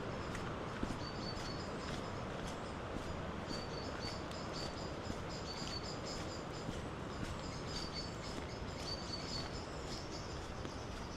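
Small songbirds chirping in short, high, repeated phrases over a steady rush of noise from the swollen, flooding river.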